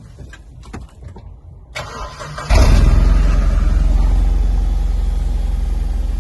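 BMW Z4 (E85) engine being started: a few light clicks, a short crank, then it catches with a sudden loud flare about two and a half seconds in. It settles into a steady, slowly easing idle.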